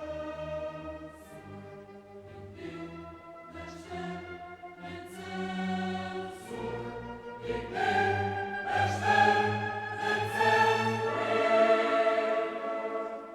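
Background classical music: a choir singing with an orchestra, swelling louder about eight seconds in.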